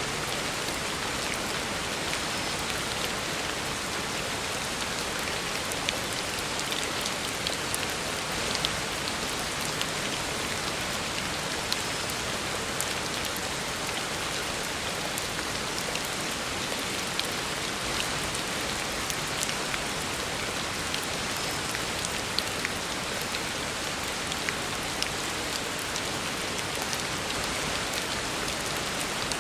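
Steady heavy rain falling on a road surface, a dense even hiss with scattered sharper drop ticks.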